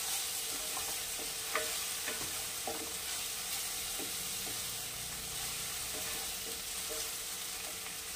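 Chopped onion and ginger-garlic paste sizzling in oil in a kadai while a wooden spatula stirs and scrapes it, with light clicks of the spatula against the pan; the stirring stops near the end and the sizzle goes on.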